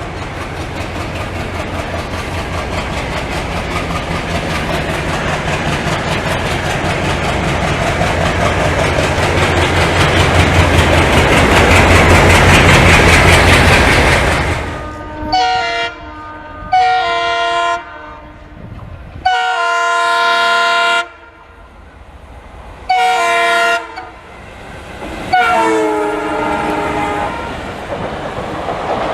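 Twin ALCo WDG3A diesel locomotives approaching under power, their engine sound building for about fourteen seconds and then dropping away as they pass. Five multi-tone horn blasts follow, the third the longest, with the train's wheels clattering on the rails in between.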